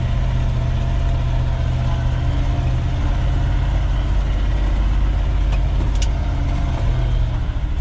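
A 1973 Ford F-250's 360 V8 running at a steady low drone while the truck drives slowly through snow.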